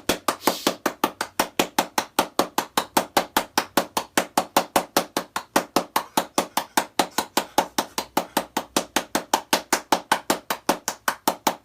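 Rapid, steady knocking or tapping, about six sharp strikes a second in an even rhythm.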